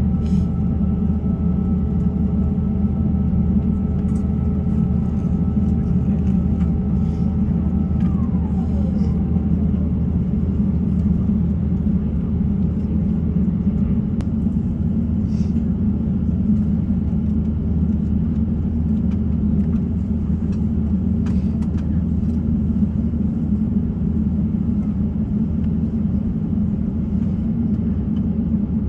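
Airbus A350-900 cabin rumble while taxiing: a steady low drone from the Rolls-Royce Trent XWB engines and the airframe. A thin, steady high whine fades out with a falling pitch about eight to nine seconds in.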